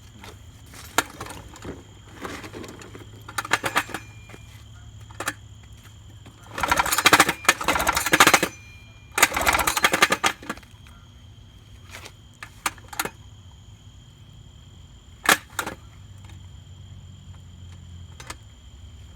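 1955 Elgin two-stroke twin-cylinder outboard pulled over twice on its recoil starter with the spark plugs out, each pull turning the motor over for about two seconds without firing, too slowly to drive the water pump. Scattered clicks and knocks of handling come before and after the pulls.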